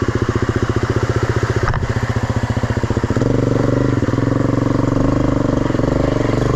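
Dirt bike engine idling with rapid even pulses, then picking up a little in revs and running louder and steadier from about three seconds in.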